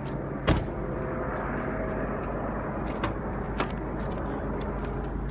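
Steady car noise with a sharp click about half a second in and a couple of lighter clicks later.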